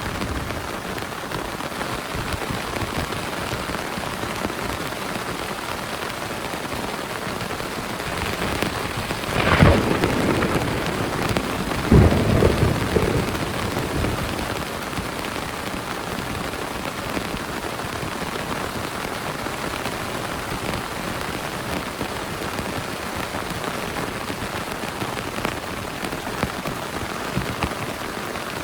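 Heavy rain falling steadily, with two thunderclaps: a sharp crack about a third of the way in, and a second a few seconds later that rolls on as rumbling thunder for a couple of seconds.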